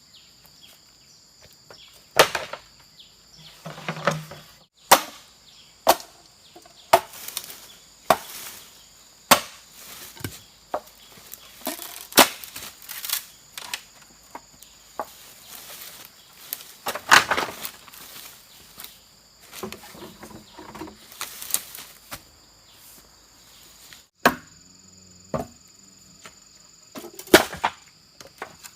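A blade chopping into bamboo with sharp, separate strokes at an uneven pace of roughly one a second. A steady high insect buzz runs behind the strokes.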